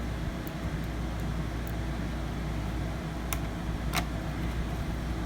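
Steady low background hum, with two sharp clicks a little past halfway as a small screw is driven into the laptop's base with a screwdriver.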